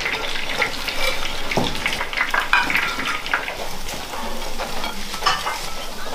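Fish pieces deep-frying in a large wok of hot oil as they are taken out: a steady sizzle, with many short irregular clicks and scrapes of a metal ladle against the wok.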